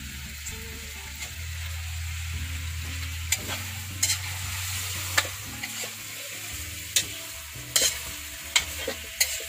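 Squid frying in a wok: a steady sizzle, with a metal spatula scraping and clacking against the pan about seven times in the second half.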